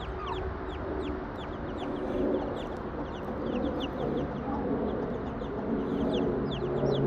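Chickens clucking low and irregularly, with many short, high, falling peeps throughout. A steady low hum comes in near the end.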